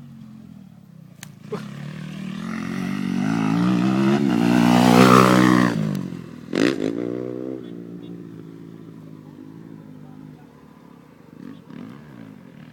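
Motocross dirt bike engine riding past. It grows louder to a peak about five seconds in, then falls away, with another short burst of throttle about a second later.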